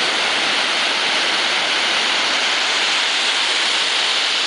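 Ocean surf breaking: a steady, even rush of water noise with no single wave crash standing out.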